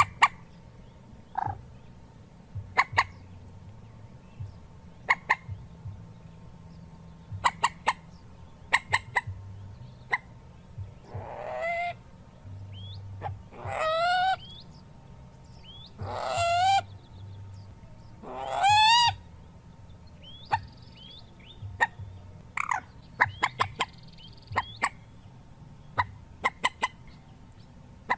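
Calls of a single mandar (rail): short, sharp notes at irregular intervals. In the middle stretch come four longer, harsh calls that rise and waver in pitch.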